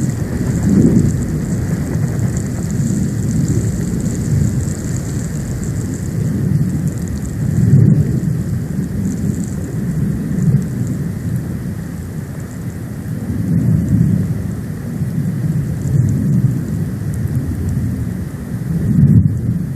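Storm wind buffeting the nest-cam microphone: a continuous low rumble that swells in gusts every few seconds, over a steady hiss of wind and snow.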